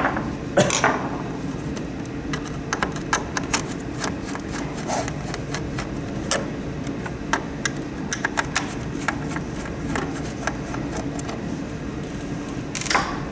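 Irregular light clicks and taps from a small humidifier's plastic parts and fan being handled and taken apart by hand, over a steady low hum.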